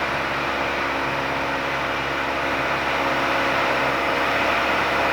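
Steady drone of a light single-engine plane's engine and propeller in cruise, heard from inside the cabin of the 1973 Piper PA-28-180. It gets slightly louder about three seconds in.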